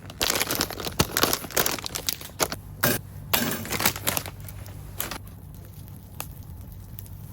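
Plastic packaging crinkling and tearing in quick rustling bursts for about five seconds, as a package of dried filefish is opened, then a few isolated clicks.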